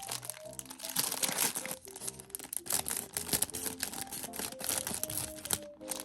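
Plastic snack-bread wrapper crinkling and rustling as it is handled, with many quick crackles throughout, over background music with a simple melody.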